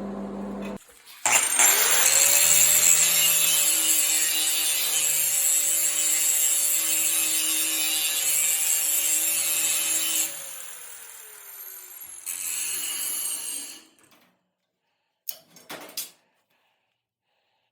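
Electric angle grinder spinning up about a second in and grinding a weld on the disc's steel frame, then winding down after about ten seconds. A second, shorter burst of grinding follows, and two brief scrapes near the end.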